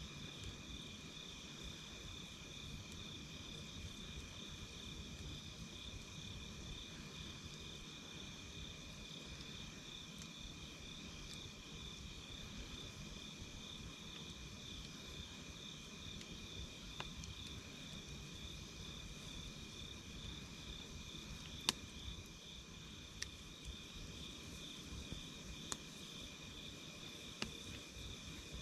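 Crickets chirping steadily in two high-pitched bands with a rapid pulse, over the low sound of a wood campfire. A few sharp crackles from the burning wood come in the second half, the loudest about two-thirds of the way in.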